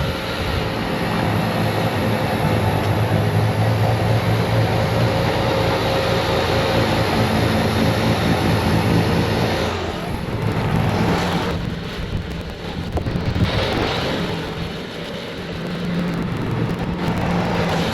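Bobcat T66 compact track loader's diesel engine running hard to drive its snowblower attachment, over a steady rushing of snow being blown. About ten seconds in, the sound dips and swells repeatedly as the machine moves and the load changes.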